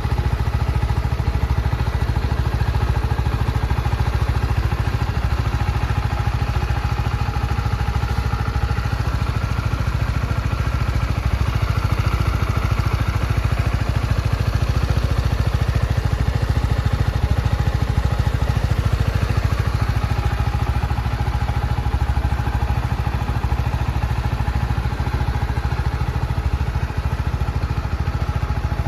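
Honda CB125R's 125 cc single-cylinder four-stroke engine idling steadily, with an even, rapid exhaust pulse and no revving.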